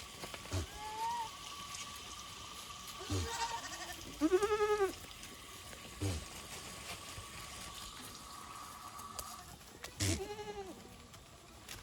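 Goats bleating about four times, the loudest a long wavering bleat about four seconds in, the last near the end.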